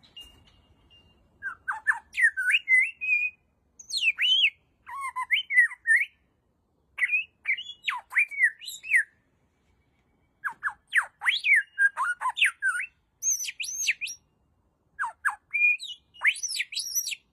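A bird calling in repeated runs of quick, varied whistles, chirps and squawks that sweep up and down in pitch, with short pauses between the runs.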